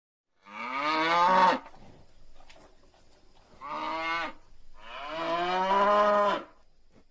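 A cow mooing three times, the last call the longest, each dipping in pitch at the end.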